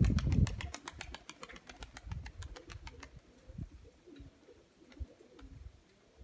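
Pigeons' wings beating in a fast, even clatter that fades out about three seconds in, with a low rumble at the very start; pigeons then coo quietly.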